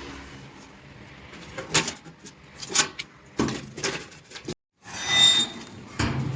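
A series of separate knocks and clanks, irregularly spaced, then a brief scraping sound and another knock near the end.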